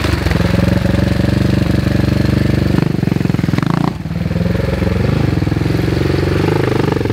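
Engine of an old barn-find Husqvarna dirt bike running under throttle as the bike rides off. The revs dip about four seconds in, then pick up again.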